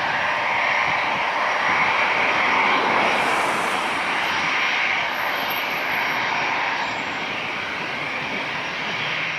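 Jet engines of a Boeing 787-8 Dreamliner running, heard as a steady wide rushing noise with a faint high whine. It eases slightly after about five seconds.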